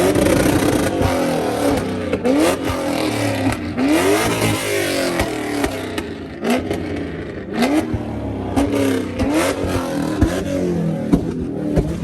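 Car engine revved hard again and again, each rev a quick rising whine, over a dense noisy background.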